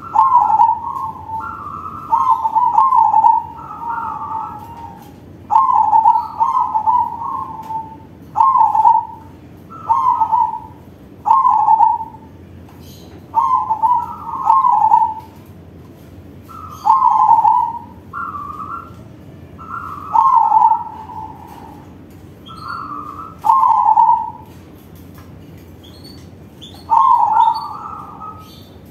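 Crossbred perkutut (zebra dove) singing its loud, full-voiced cooing song: short repeated phrases of rolling coos, one every second or two, with a longer pause near the end.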